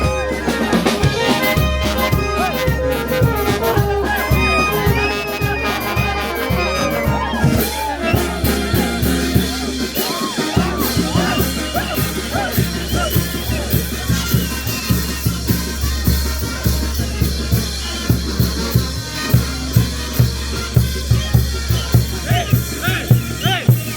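A brass band playing: a brass melody over a drum kit and bass drum for the first eight seconds or so, after which the horns thin out and the drums carry on with a steady beat.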